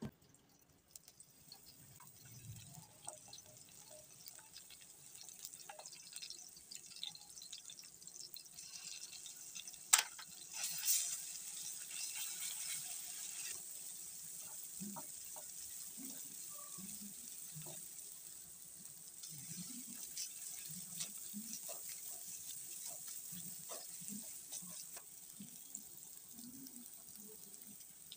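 Hot oil sizzling in a wok as green chilli, ginger-garlic paste and chopped spring onion fry, the hiss building and growing stronger after a sharp knock about ten seconds in. A spatula stirs through it, knocking lightly against the pan.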